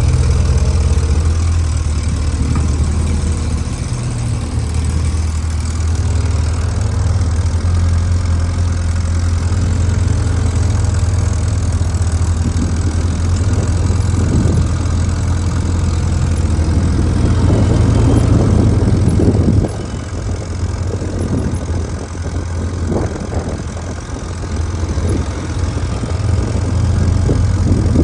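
Motorcycle engine running at low speed, a steady low drone with small throttle changes; it eases off a little before the halfway point and then runs on unevenly.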